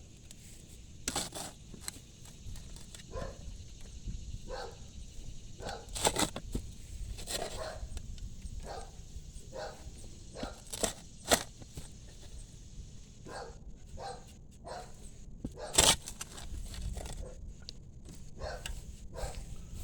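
Shovel digging into grassy topsoil and rocky clay: repeated scraping and crunching strokes about once a second, with a few sharper, louder strikes.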